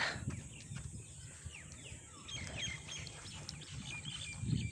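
Birds chirping: a run of many short, quick calls from about a second in, over a low rumble.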